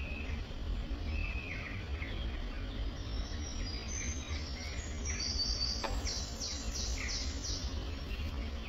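Small birds chirping and twittering, with a quick run of repeated high notes in the middle, over a steady low hum.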